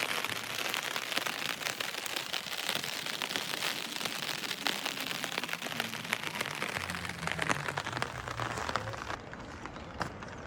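Rain falling, a dense patter of many small drops. About seven seconds in a low hum joins it, and about nine seconds in the sound abruptly turns quieter and duller.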